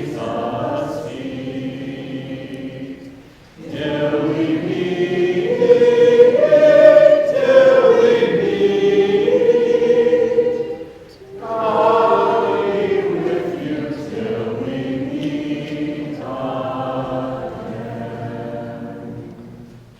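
Small vocal group singing together in three phrases, with short breaths between them about three and a half and eleven seconds in. The last phrase fades out near the end.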